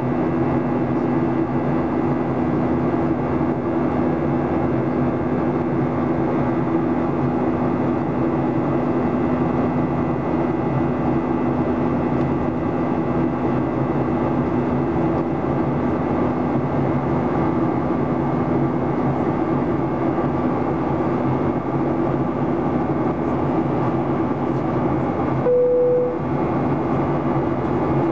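Steady cabin noise of a Boeing 737-800 in flight. Its CFM56-7B engines drone with two steady low hum tones. A short single tone sounds once near the end.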